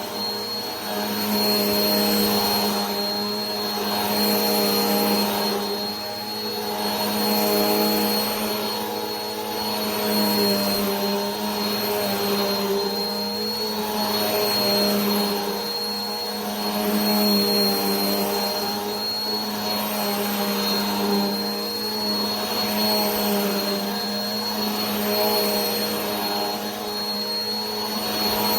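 Vacuum cleaner motor running continuously: a steady low hum under a thin high whine, with a loudness that swells and eases every few seconds.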